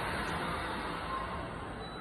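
Steady hiss from a stationary Keisei AE-series Skyliner electric train at the platform, starting suddenly just before and easing a little.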